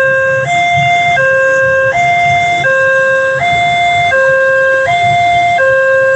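Railway level-crossing warning alarm sounding an electronic two-tone signal, a lower and a higher note alternating about every three-quarters of a second, the signal that a train is approaching.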